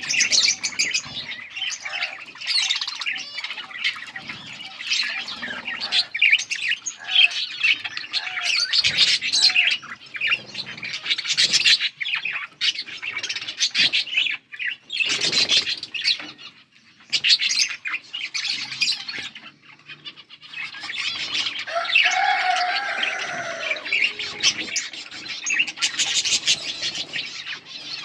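Budgerigars chirping and chattering in a fast, continuous warble of high chirps, dropping off briefly a couple of times midway.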